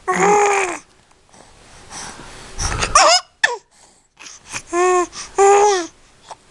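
Five-month-old baby making short high squealing, laugh-like vocal noises, about four in all, with a breathy gasp about two and a half seconds in.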